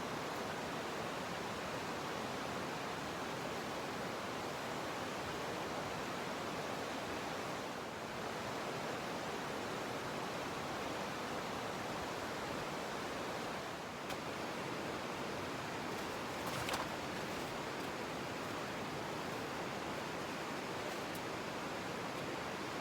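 Steady, even rushing noise, with a faint click about two-thirds of the way through and another a little later.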